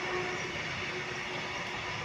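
Intermodal freight train's container flat wagons rolling past: the steady, even rush of steel wheels running on the rails, with a faint tone that comes and goes.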